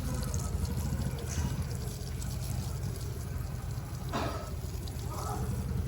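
Water from a garden hose pouring and splashing onto the garden, a steady rush.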